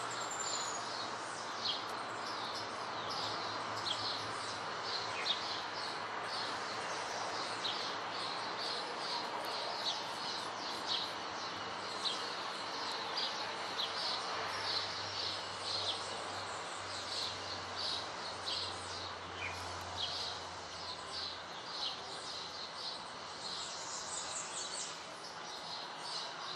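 Steady rain falling on vegetation, a soft even hiss, with a small bird calling short, high chirps over and over, about two a second.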